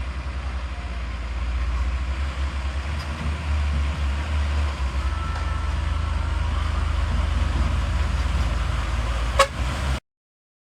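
Heavy truck engine running with a deep, steady low rumble and road noise, a sharp knock near the end, then the sound cuts off abruptly.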